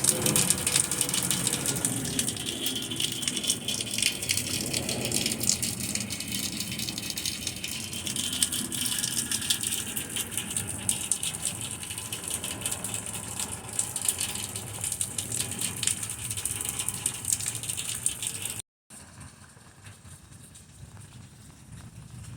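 Heavy rain falling, a dense patter of drops striking close by. After about eighteen seconds it cuts suddenly to a much quieter steady hiss.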